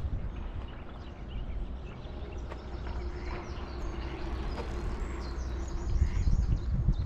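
Outdoor ambience: a steady low rumble with faint, short bird calls above it.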